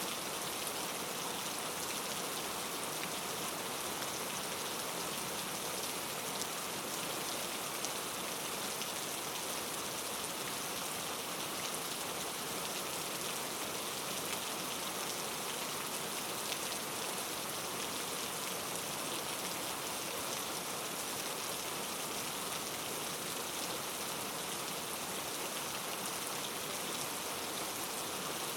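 Steady rain falling, an even hiss of many drops pattering on a surface, with no thunder.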